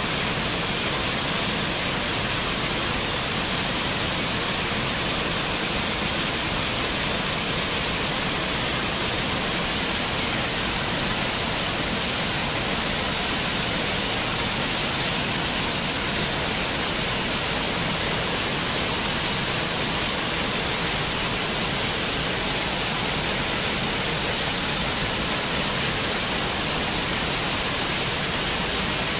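Running water splashing in a steady, unbroken hiss, like a small waterfall or cascading stream.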